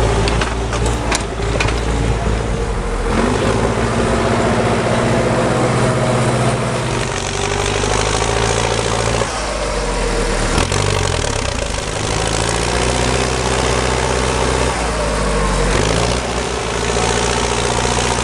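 Belarus MTZ 1025 tractor's engine running steadily while the tractor works through mud, its pitch dipping and rising again twice.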